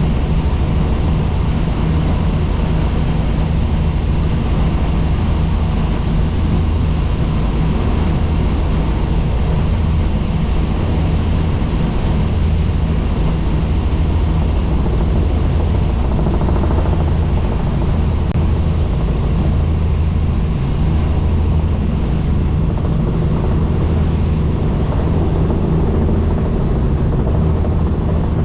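Helicopter in cruise flight heard from inside the cabin: a steady low rotor beat and turbine noise.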